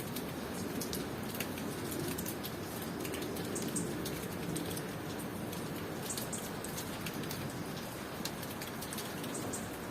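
Steady tropical rain falling, with a constant hiss and the sharp ticks of drops landing close by. A few brief, high-pitched cricket chirps come through over it.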